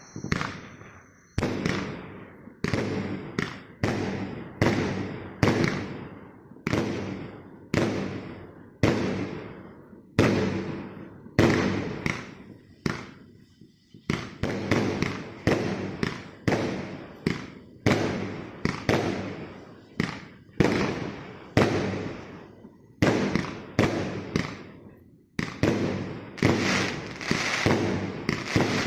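Multi-shot fireworks battery (cake), the 'Tankisty' PKU891, firing shot after shot: sharp bangs about one a second, each trailing off. Near the end the shots come faster and run together into continuous crackling.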